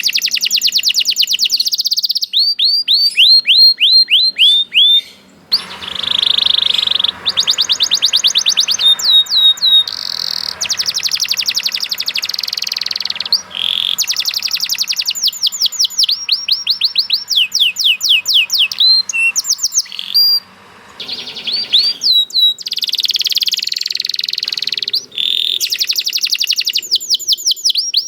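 Domestic canary singing a long, fast song: rapid trills and rolls of repeated high notes alternating with quick runs of falling chirps, with only brief breaths between phrases.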